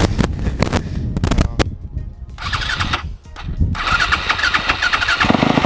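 Dirt bike engine being cranked over with the choke on, with several sharp strokes and sputters before it catches about five seconds in and settles into a steady run.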